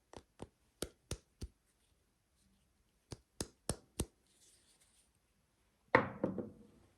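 Crisp fingertip taps on a soap bar and its packaging, two quick runs of four or five, then a louder knock with a short rustle about six seconds in.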